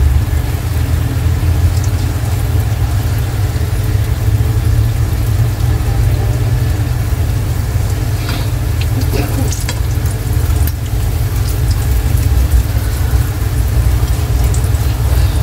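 Breaded green tomato slices sizzling in hot frying oil, with a few short clicks partway through, over a steady low rumble.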